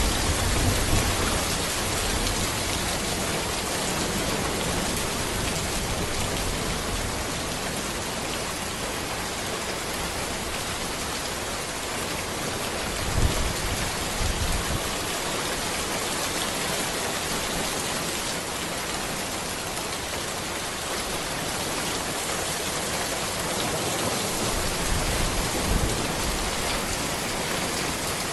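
Steady rain falling on a road, an even dense hiss of drops. A few brief low rumbles rise under it: at the start, about halfway through, and near the end.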